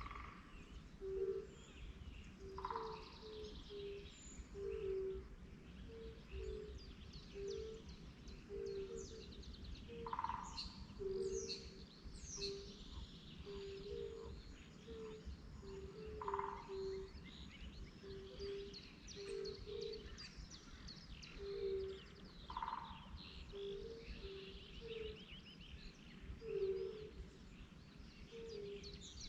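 Birds singing and chirping, with a louder call repeated about every six seconds.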